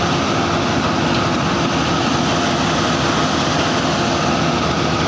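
Heavy construction machinery's diesel engine running steadily, a dense, unbroken engine noise with a faint steady hum in it.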